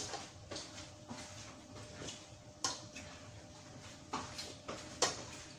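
Spoon and fork clinking against ceramic bowls and plates while eating: irregular sharp clinks, the loudest about two and a half and five seconds in.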